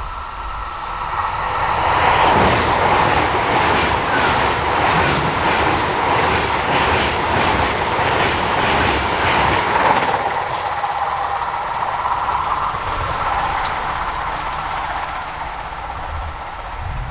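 Train passing on an electrified mainline: the sound builds over the first two seconds, the wheels beat a regular rapid clatter, about two a second, over a steady whine, and it fades away from about ten seconds in.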